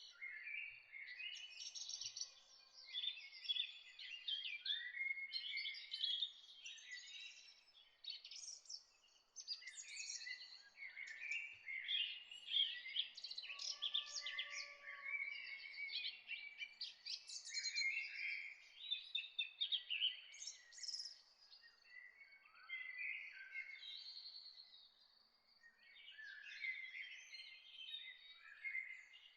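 Many songbirds singing and chirping at once, a continuous chorus of overlapping high trills and chirps with a few lower whistles.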